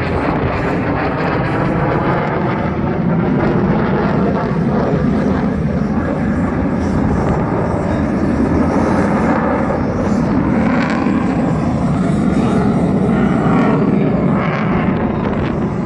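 Lockheed Martin F-22 Raptor's twin Pratt & Whitney F119 afterburning turbofans, loud jet noise of the fighter in flight that stays steady and unbroken throughout.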